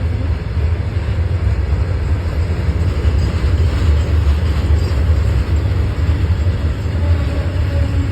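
Goods train running past on the track: a loud, steady rumble of wagons rolling.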